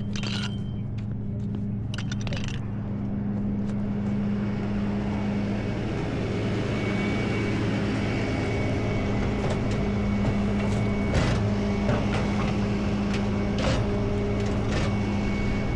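Tow truck engine idling steadily, with a few short knocks over it, about two seconds in and again around eleven and thirteen seconds in.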